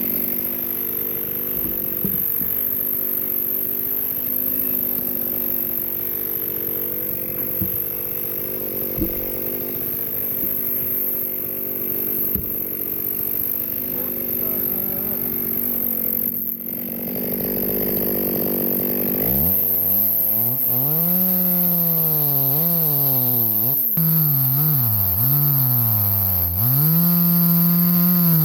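Chainsaw cutting through a log, running steadily at high speed for most of the time. In the last third its engine speed swings up and down repeatedly as it bogs under load and recovers.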